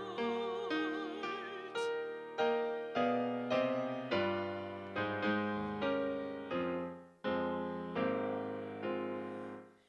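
A sung note with vibrato fades in the first second. A piano then plays a slow interlude of single struck chords, each one ringing out and dying away, with a brief near-silent gap about seven seconds in.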